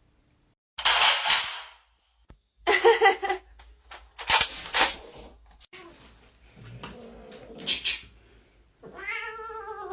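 A cat vocalising in several loud separate bursts, some harsh and noisy, ending with a pitched call that rises and falls near the end.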